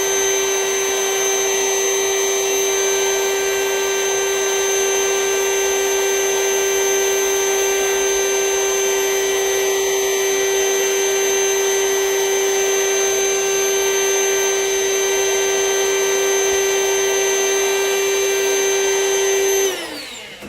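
Vacuum cleaner running steadily with a high whine as it draws the air out of a vacuum storage bag packed with plush toys. It is switched off about a second before the end, its pitch falling as it winds down.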